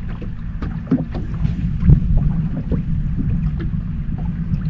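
Wind buffeting the microphone, heavily noise-reduced to a steady low rumble, with scattered light knocks and ticks through it.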